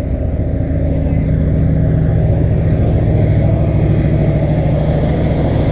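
A car engine running steadily at a low, even pitch, getting a little louder about a second in and then holding.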